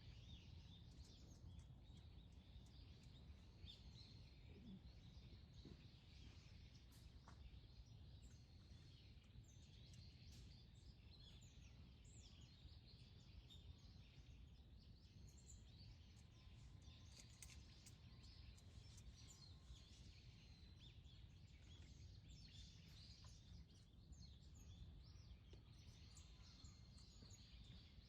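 Faint chirping and calls of small birds, many short notes through the whole stretch, over a steady low background rumble.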